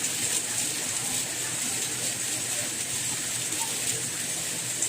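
Steady soft rain: an even hiss, brightest in the treble, with faint scattered drop ticks.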